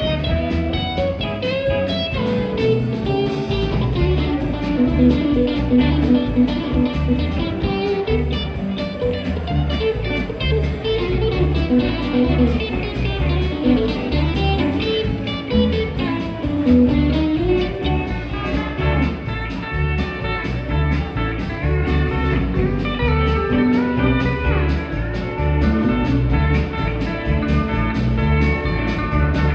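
Band playing an instrumental break: a guitar takes the melody over a steady bass line, in a bluesy style.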